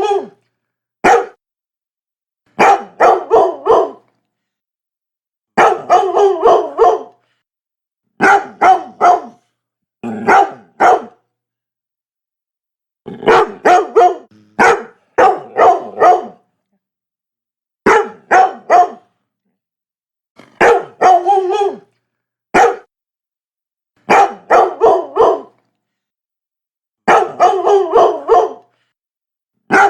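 Labrador barking in quick bursts of three to five barks, a burst every two to three seconds with silence between, now and then a single bark.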